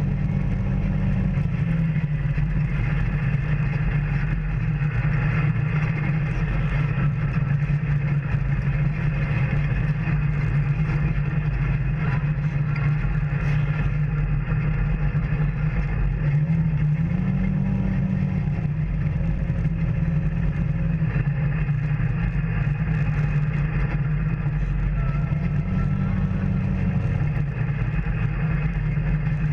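Engine of an off-road vehicle running steadily on a trail, its low note rising and easing back a few times.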